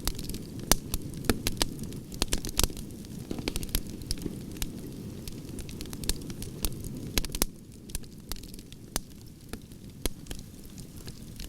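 Campfire of burning logs, with frequent sharp crackles and pops over a steady low rush of flame; the pops thin out and the fire grows a little quieter about two-thirds of the way through.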